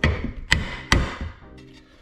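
Three sharp metal strikes about half a second apart, each ringing briefly: tapping on old, stuck VW Beetle drum-brake parts to free them.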